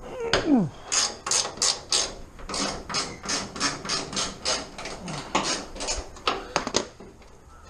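Hand ratchet wrench clicking in steady strokes, about three a second, stopping a little before the end. A short falling squeak comes about half a second in.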